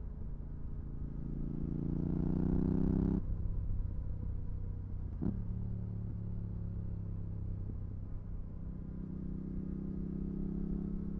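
Yamaha R7's parallel-twin engine through a MIVV GP Pro exhaust with dB-killer fitted. The revs climb for about two seconds, then drop off suddenly. A single sharp click comes about five seconds in, and the engine runs steadily before rising a little again near the end.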